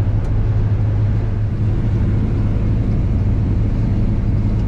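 Combine harvester running steadily at full throttle while harvesting wheat, a constant low drone.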